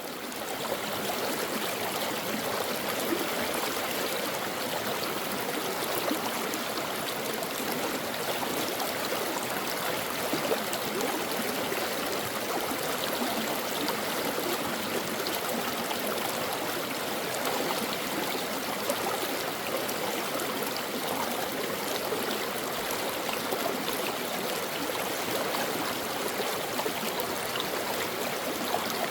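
A stream flowing and babbling steadily, fading in at the very start.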